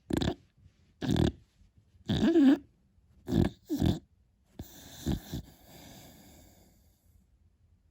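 Sleeping beagle puppy snoring with piglet-like grunts: five short snores in the first four seconds, then a longer, softer breathy exhale with one more short snort, fading out near the end.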